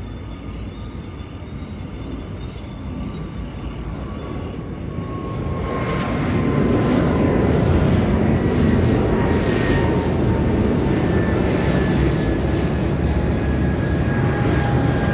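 Jet airliner's engines growing louder as it passes close by. The noise builds from about five seconds in and stays loud, with high whining tones that slowly fall in pitch.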